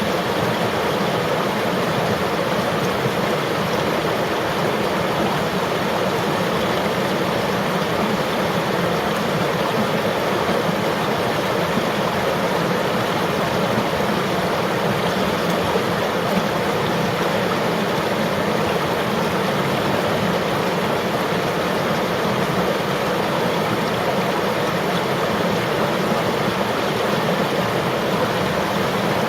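Flowing river water: a steady, even rush with no breaks or single events.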